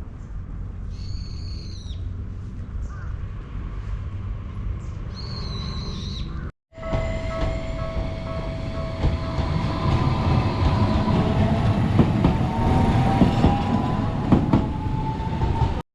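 Outdoor background with a bird calling twice, then, after a cut, a Tokyu Setagaya Line streetcar running on its rails: a steady whine from the tram's motor with a second tone rising slowly as it picks up speed, over rumbling wheel noise.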